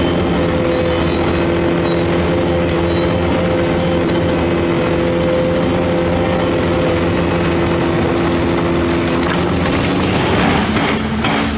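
Heavy diesel earthmoving machinery running at a steady note, with several held engine tones. The note changes about ten seconds in.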